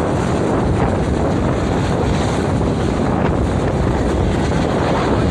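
Police helicopter running close by, its rotor and engine noise mixed with downwash buffeting the microphone in a steady, loud rush.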